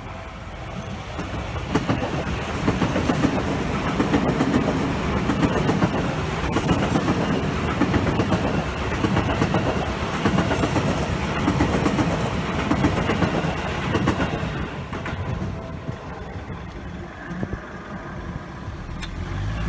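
Seibu Railway 20000 series electric multiple-unit train passing close by, its wheels running loudly on the rails. The sound swells about two seconds in as the train arrives and dies away over the last few seconds as it clears.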